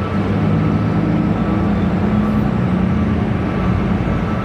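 An engine running steadily with a low hum that swells briefly and then eases off.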